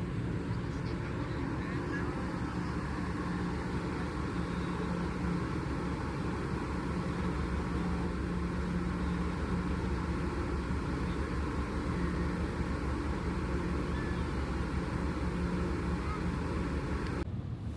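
Steady engine drone with a low rumble and a constant hum, changing abruptly just before the end.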